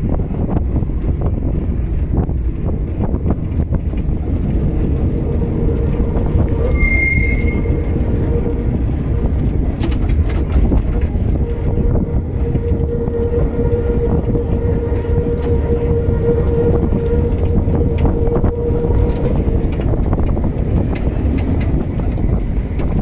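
Historic tram running along its track: a steady low rumble of wheels on rail with scattered clicks. A long steady whine comes in about five seconds in and stops near the end, and a brief high squeal sounds about seven seconds in.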